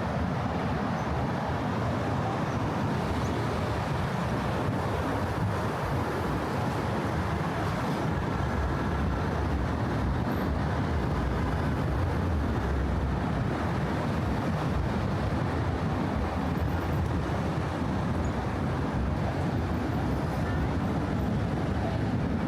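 Steady motor traffic running on the Brooklyn Bridge roadway, an even low rumble of tyres and engines with no single vehicle standing out.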